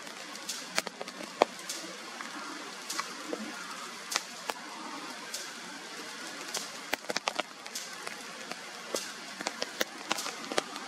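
Steady rain falling, with many sharp taps of individual drops landing close by at irregular intervals, more of them in the later seconds.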